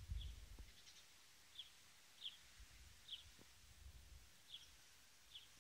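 Faint bird calls: short high chirps repeating roughly every three-quarters of a second, over a low rumble that is strongest at the start.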